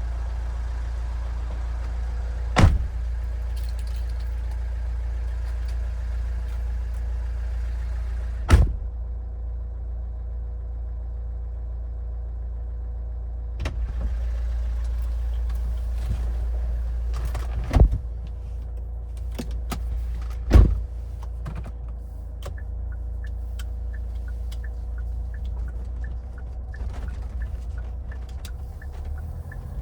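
Cabin noise of a 2014 Hyundai Santa Fe being driven: a steady low rumble of engine and road, broken by five sharp thumps, with a run of faint, evenly spaced ticks in the second half.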